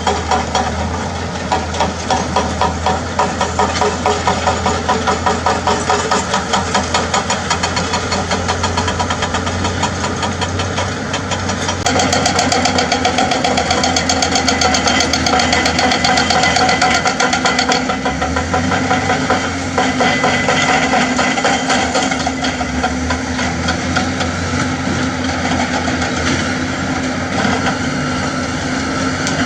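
Heavy excavator diesel engines running with a pulsing throb. About twelve seconds in, a faster, harsher rattle joins for about six seconds, then the engine settles to a steadier note.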